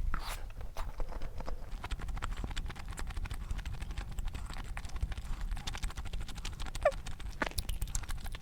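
Close-miked chewing of crunchy glazed Korean fried chicken (dak gangjeong): a dense run of crisp crunching clicks.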